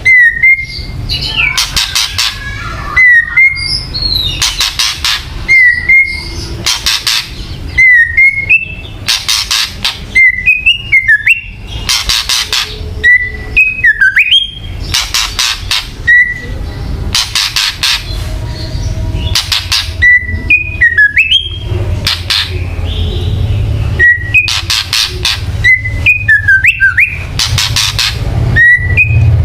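White-rumped shama (murai batu) giving kretekan calls: harsh rattling bursts in clusters every second or so, each paired with a short whistled note that slurs up or down. This agitated, challenging call is used to provoke a caged shama into fighting mood.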